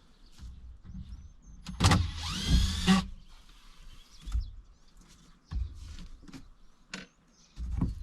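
A small electric motor whirring for about a second, its pitch rising, with scattered knocks and clunks around it.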